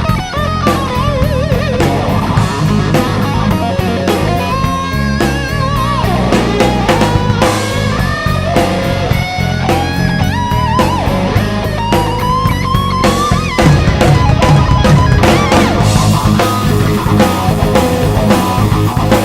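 Rock music: an electric guitar plays a lead line full of pitch bends and vibrato over bass and drum kit.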